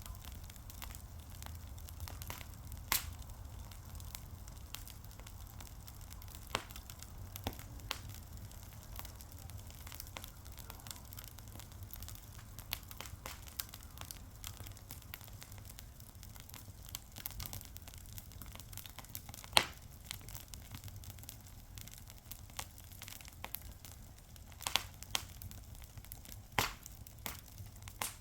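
Fire crackling, with irregular sharp pops scattered over a steady low rumble. The loudest pop comes about two-thirds of the way in, and a few more cluster near the end.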